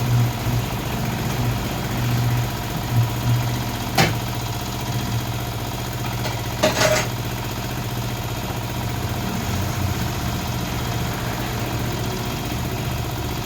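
A motor running steadily with a low hum, with one sharp click about four seconds in and a short clatter of clicks just before seven seconds.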